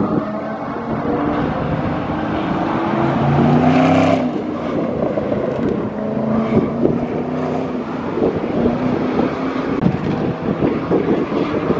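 Chevrolet Camaro's engine accelerating and lifting off through an autocross course, its pitch rising and falling with the throttle and loudest about four seconds in. In the second half, wind buffeting the microphone adds sharp crackles.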